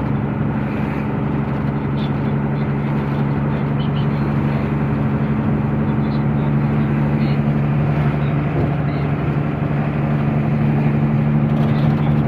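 Truck engine running steadily while driving, a constant low drone that grows slightly louder and shifts a little in pitch in the second half.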